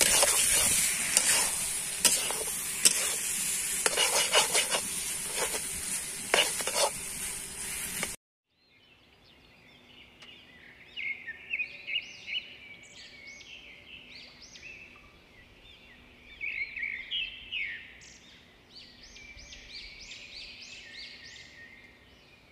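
Banana-flower curry sizzling in a steel wok while a spatula stirs and scrapes against the pan, for about the first eight seconds. It then cuts off and gives way to birds singing and calling, many short chirps over a quiet background.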